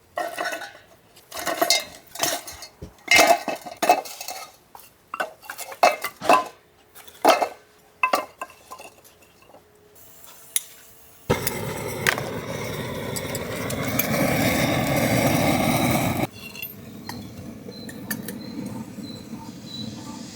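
Dishes and utensils clinking and knocking as they are handled and set down, a sharp strike every half second to second. About eleven seconds in, this gives way to a loud steady rushing noise that drops to a quieter steady noise about five seconds later.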